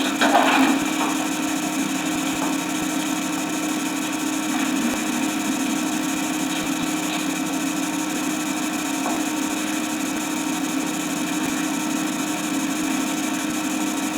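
A steady mechanical hum with hiss, even throughout, with a brief louder patch about half a second in.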